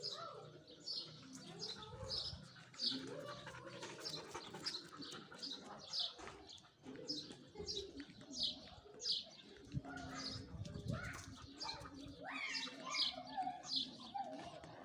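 Small birds chirping over and over: short, sharp calls that fall in pitch, about two a second, over a lower jumble of sound.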